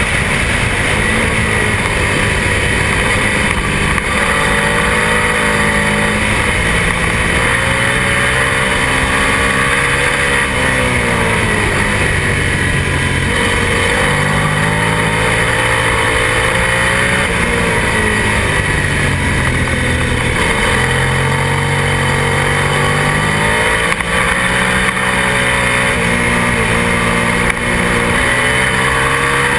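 Twin-cylinder racing motorcycle engine at race pace, heard onboard over heavy wind rush on the microphone. Its note climbs under acceleration and drops several times as the rider brakes and downshifts for corners.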